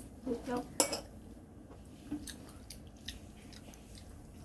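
A young child chewing food, with small mouth noises and a short hum near the start. A sharp click a little under a second in, as the training chopsticks pick food from a dish.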